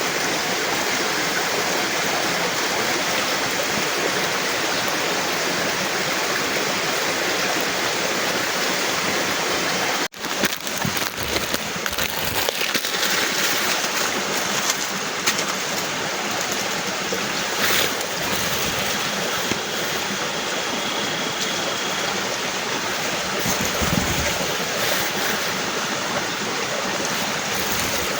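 Heavy rain pouring down in a steady, dense hiss. It cuts out for an instant about ten seconds in, then carries on a little more unevenly, with scattered patters.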